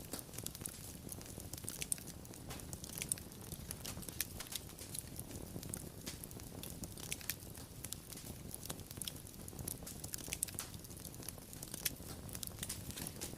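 Wood fire crackling, with frequent irregular sharp pops and snaps over a soft steady low rumble of the flames.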